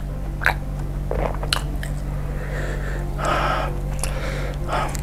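A person chewing a dense meatball with the mouth mostly closed, giving a few wet mouth clicks. A breathy sniff comes a little after three seconds in.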